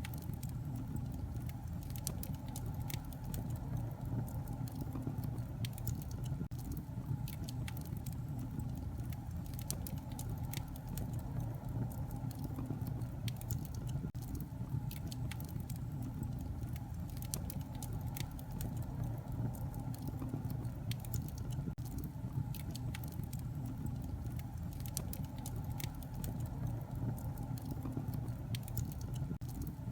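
Wood fire crackling in a fireplace: a steady low rumble of flame with frequent sharp pops and snaps scattered throughout.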